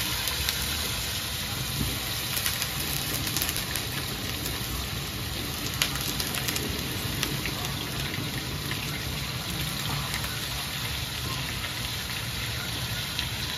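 Sliced banana stem sizzling in a hot steel wok, a steady hiss, with a few sharp clicks and scrapes of a metal spatula against the wok.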